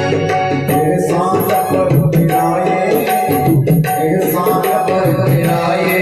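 Devotional bhajan music in an instrumental passage: tabla and octapad beating out a steady rhythm with a shaker-like rattle, over sustained held notes.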